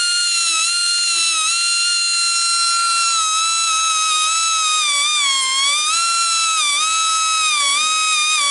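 Air-powered rotary grinder running at high speed, sharpening the teeth of a sawmill band blade. Its whine is steady and high-pitched, dipping in pitch each time the stone bears on a tooth.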